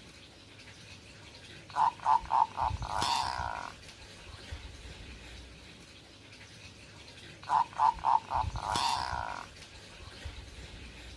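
Zebra dove (perkutut) cooing twice, each phrase a quick run of four short notes ending in a longer rolling coo. This is the song of a male in breeding condition.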